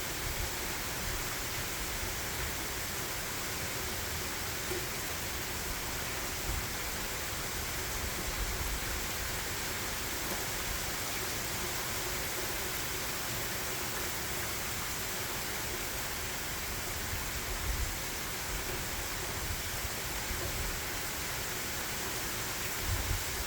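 Heavy rain falling, a steady hiss, with a few brief low rumbles now and then.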